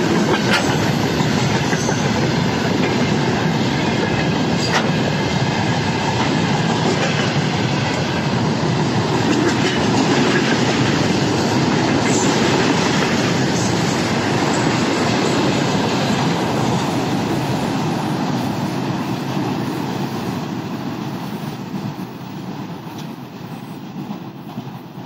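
Freight train of tank cars and open gondola wagons rolling past close by, a steady clatter of wheels over the rail joints, fading away over the last several seconds as the end of the train draws off.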